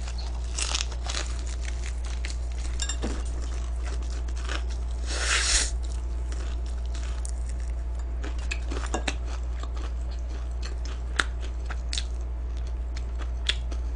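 Close-miked eating: crispy fried chicken being bitten and chewed, with scattered crackly crunches and one louder crunch about five seconds in.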